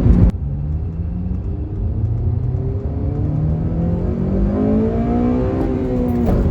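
Car engine accelerating hard, its note climbing steadily for several seconds and then falling back near the end.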